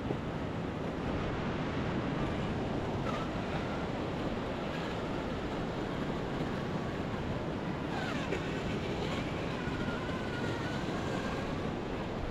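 Lake Superior surf breaking on the shore, with wind buffeting the microphone, a steady rushing noise.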